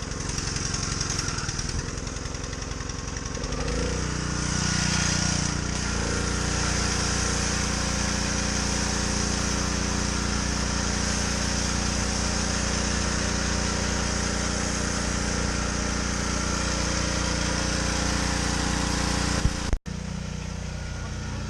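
Gas pressure washer's small engine running steadily, picking up load a few seconds in as the trigger is pulled, with the hiss of the water spray over it. A brief cut in the sound near the end.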